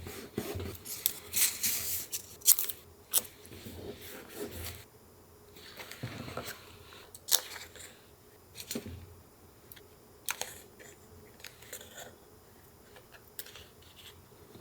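Paper being handled for collage journaling: irregular rustles, crinkles and sharp clicks of paper being cut, torn and pressed down, busiest in the first five seconds and sparser after.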